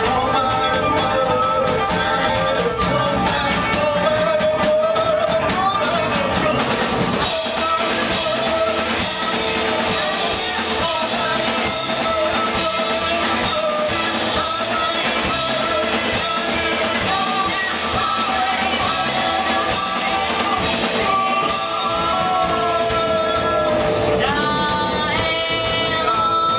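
Rock band playing live: guitar and drum kit with held, wordless vocal tones, and a run of rising pitch glides near the end.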